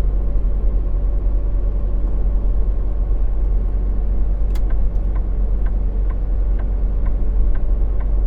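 Semi truck's diesel engine running steadily, heard as a low rumble inside the cab while driving. About halfway in, a regular light ticking starts, about three ticks a second.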